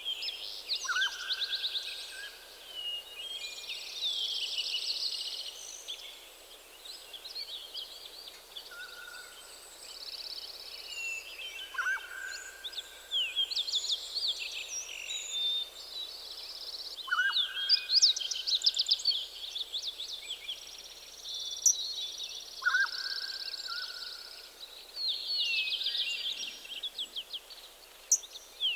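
Several forest songbirds singing together in a morning chorus: fast high trills and chirping phrases overlap throughout, and a lower whistled note recurs several times.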